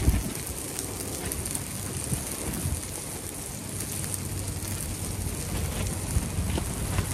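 Steady rain falling, with gusts of wind rumbling on the microphone that swell and fade.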